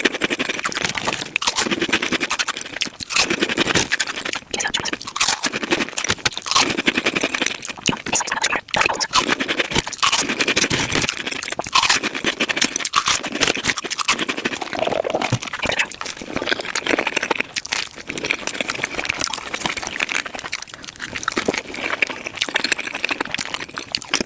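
Close-miked mukbang eating sounds of tacos being chewed, sped up five times: a dense, rapid stream of chewing clicks and crunches.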